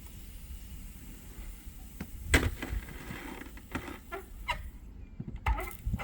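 A handful of sharp knocks and scrapes, spaced irregularly over a low rumble.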